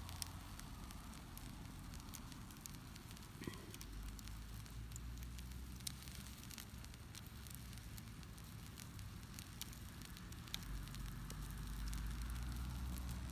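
Wood campfire crackling, with scattered sharp pops over a steady low rumble of flame.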